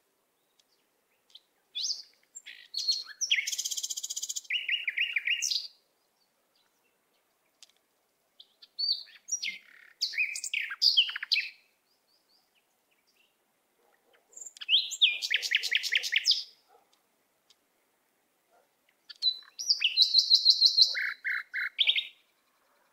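A songbird singing four separate phrases of rapid high chirps and trills, each a few seconds long, with silence between them.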